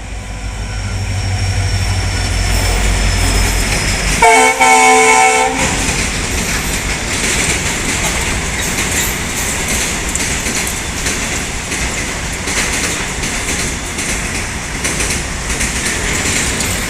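EMD WDP-4 diesel locomotive's engine rumbling as it approaches, then one horn blast of about a second and a half around four seconds in, the loudest sound. Afterwards the goods train's wagons roll past with steady wheel noise and clickety-clack over the rail joints.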